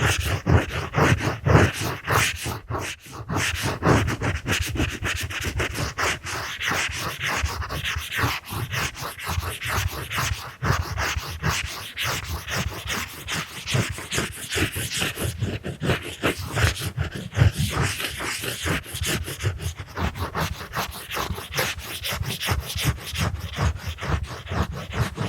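Close-up scratching and rubbing strokes of a drawing tool against the microphone or lens, dense and continuous, with a brief lull about three seconds in.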